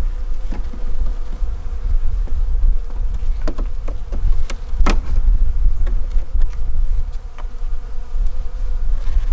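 Honeybees buzzing in a steady hum around an opened hive, over a low rumble. A few sharp clicks about halfway through.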